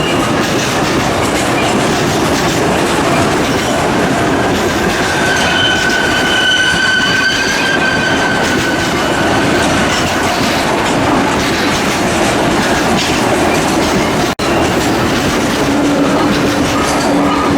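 Freight train rolling past: a steady rumble of wheels on rail with clickety-clack, and thin high wheel squeal from about five to eight seconds in. The sound breaks off for an instant about fourteen seconds in.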